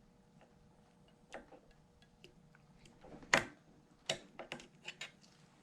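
Metal snap-ring pliers and a steel snap ring clicking and ticking while the bearing-retaining ring is worked out of its groove. The clicks are sharp and separate: one small click, the loudest about three and a half seconds in, then a quick cluster near the end.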